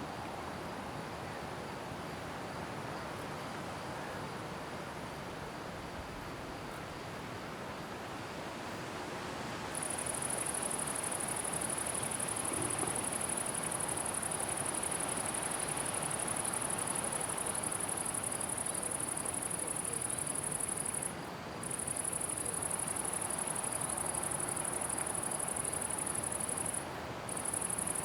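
A cricket-type insect starts a continuous, very high buzzing trill about a third of the way in, over a soft steady hiss of open-air ambience. The trill breaks off briefly twice near the end.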